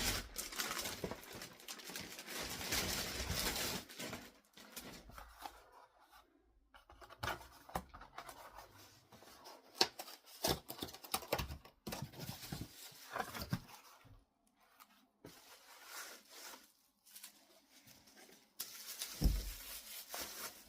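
Packaging being unwrapped by hand: a long stretch of rustling and tearing, then scattered rustles, clicks and light knocks as items are handled, with a dull thump near the end.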